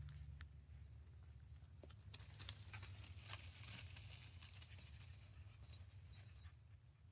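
Faint rustling and scattered twig-like crackles of a dog moving about in dry undergrowth, with one sharper snap about two and a half seconds in, over a low rumble.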